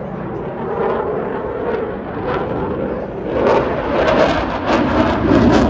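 Eurofighter Typhoon fighter jet's twin turbofan engines, loud jet noise that grows louder with a harsh crackle about three seconds in.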